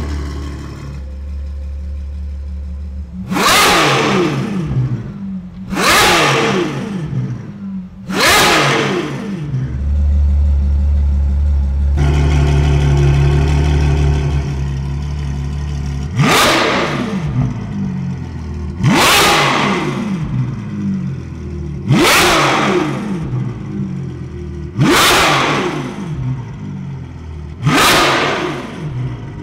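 Ferrari 812 Superfast's V12 with a Novitec catless exhaust being free-revved while parked: about eight sharp blips to high revs, two to three seconds apart, dropping back to idle between them. It holds a steady raised idle for several seconds in the middle.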